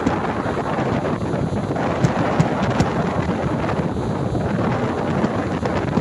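Fireworks display going off, with booms under heavy wind noise on the microphone and three sharp cracks about two to three seconds in.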